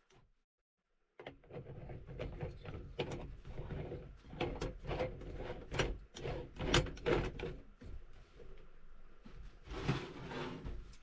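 A run of knocks, clicks and rattles of things being handled, beginning suddenly about a second in after a moment of silence.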